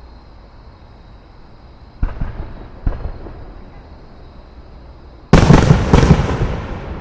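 Aerial fireworks exploding: two bangs about two and three seconds in, then a much louder cluster of bangs near the end that dies away over a second or so.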